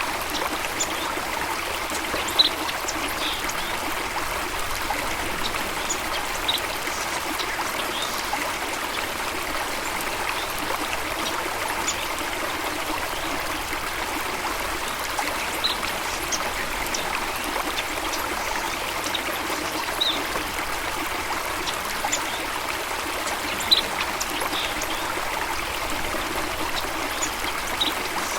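Stream water flowing steadily, with short high notes now and then. The sharpest come about two seconds in and near the end.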